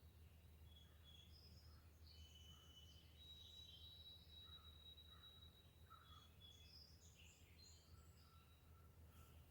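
Faint songbirds calling: many short chirps and whistles from several birds overlapping, with one bird holding a long, steady high whistle through the middle. A low steady hum lies underneath.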